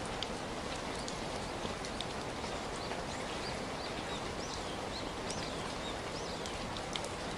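Steady rain falling, with scattered drops ticking close by. A bird chirps a few short, high times through the middle of the rain.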